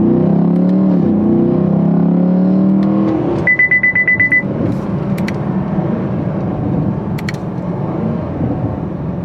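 The 2019 Camaro 2SS's 6.2-litre V8 pulling hard, its pitch gliding up and down through gear changes. A short run of rapid high electronic beeps follows about three and a half seconds in, then the engine eases off with a few sharp crackles.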